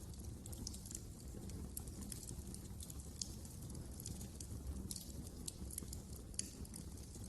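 Wood fire crackling in a fireplace: irregular sharp pops and ticks over a steady low rumble of the flames, with a couple of louder pops about three and six seconds in.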